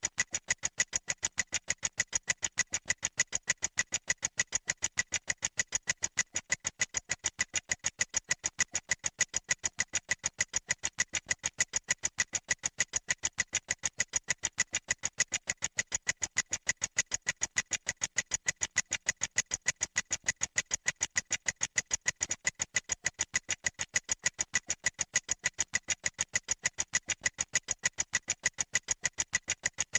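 Clock-ticking sound effect: crisp, evenly spaced ticks, several a second, without let-up.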